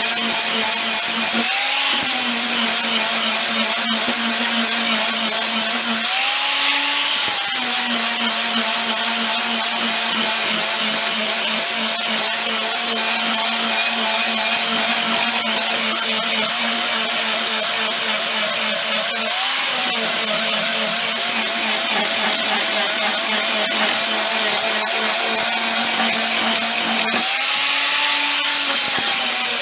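An electric power tool running steadily under load, its motor pitch rising briefly four times as the load comes off and then settling back.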